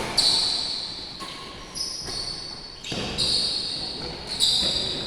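Badminton rally: a shuttlecock struck by rackets with a sharp crack roughly once a second, echoing in a large hall, with high squeaks of court shoes on the floor between hits.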